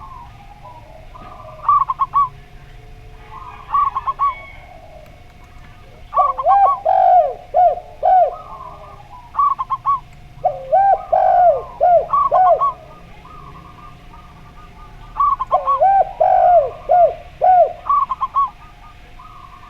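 Zebra dove and spotted dove cooing in turn: short runs of higher coo notes alternate with three longer phrases of lower, arching coos. A faint steady tone runs underneath.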